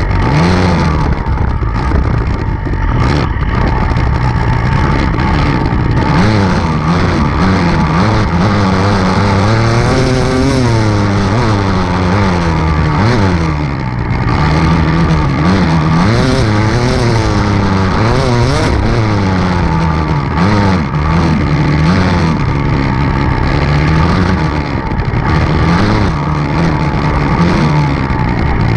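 Enduro dirt bike engine revving up and down again and again as the throttle is opened and closed, its pitch rising and falling every second or two.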